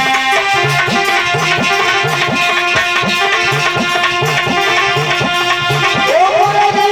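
Instrumental interlude of a Hindi devotional bhajan: tabla playing a steady rhythm, its low bass-drum strokes bending up in pitch, under sustained melodic accompaniment. A melodic line slides upward about six seconds in.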